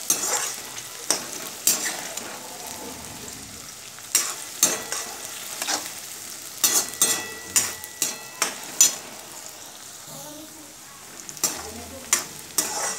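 Chopped onions and green chillies sizzling in hot oil in a steel kadai, being lightly fried until they just change colour. A perforated steel spatula stirs them, scraping and clinking against the pan at irregular intervals, most often in a quick run past the middle.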